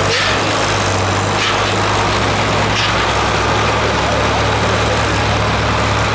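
An engine running steadily with an even low hum, over a noisy background.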